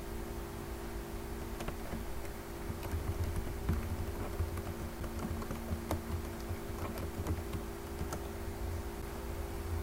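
Computer keyboard typing: irregular keystroke clicks, busier in the middle, over a steady low hum.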